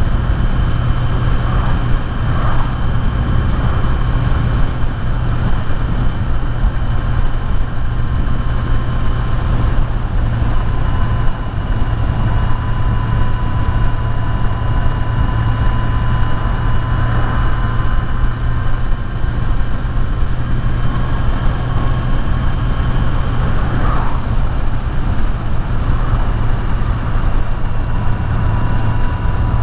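Kawasaki Z900's inline-four engine running at a steady cruising speed, with wind rushing over the rider's helmet microphone.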